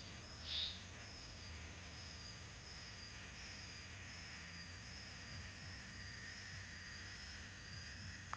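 One short, forceful exhalation through the nose, a kapalbhati breath, just under a second in. After it only a faint, high, steady trill is heard in the background.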